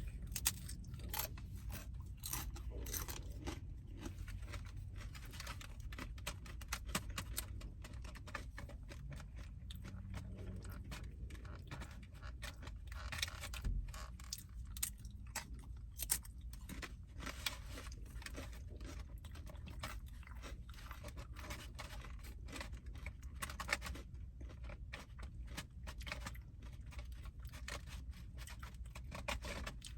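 A person chewing and crunching food close to the microphone, with irregular short crunches and mouth sounds.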